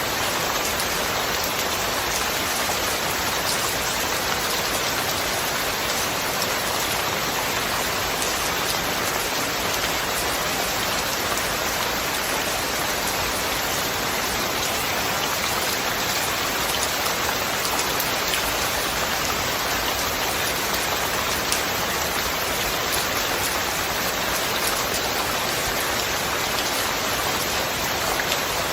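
Steady, heavy rain falling, a dense even hiss of raindrops with no thunder.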